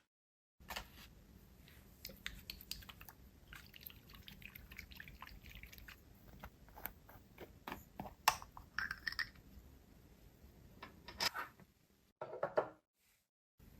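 Glass dip pen scratching across sketchbook paper in short strokes, with sharp little clicks as the nib touches down.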